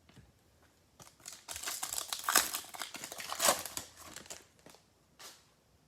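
Plastic wrapper of a trading-card pack crinkling as it is handled and torn open: a dense run of crackles from about a second in, dying away about a second before the end.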